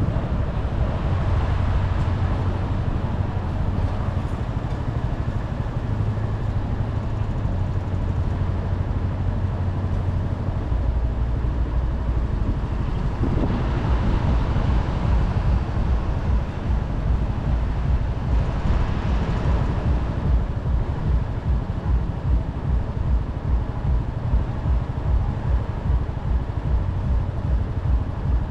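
Motorcycle engine running under way, with wind and road noise. About a third of the way in the engine note drops lower, and in the second half it settles into an even, pulsing beat at low revs. A couple of louder swells of noise in the middle sound like passing traffic.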